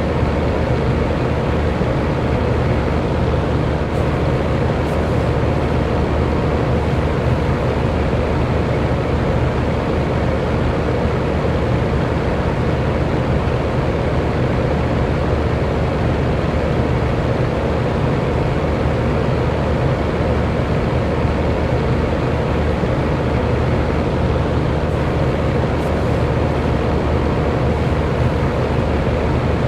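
Electric fan running steadily: an even whooshing of moving air with a faint, steady motor hum underneath.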